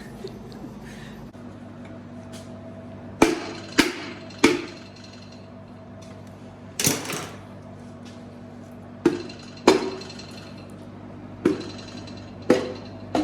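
Pistons being tapped down through a ring compressor into the cylinder bores of a Jeep 4.0 inline-six block: sharp knocks in small groups of two or three, about nine in all, over a faint steady hum.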